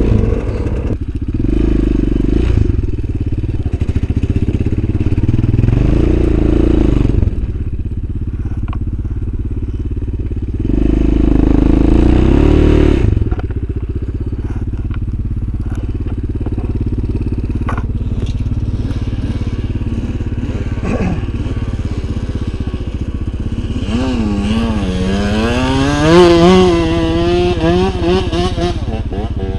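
Motorcycle engine running with louder surges of throttle, then revving up with a climbing pitch near the end as it accelerates.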